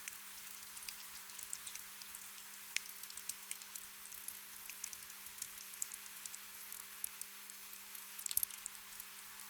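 Light rain or dripping water: scattered drops ticking irregularly over a soft steady hiss, with a small cluster of louder drops near the end. A faint steady low hum lies underneath.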